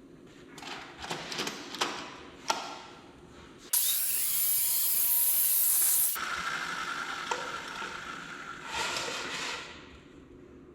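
Clatter of wood and hardware being handled. Then a power tool works the wood for about two seconds, starting and stopping abruptly, followed by a steadier, lower whine that fades out a few seconds later.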